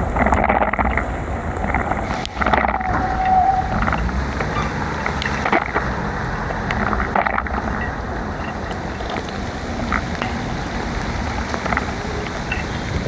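Heavy rain during a bicycle ride: a steady rush of rain, wet road and traffic, with scattered sharp ticks. A brief high tone sounds about three seconds in.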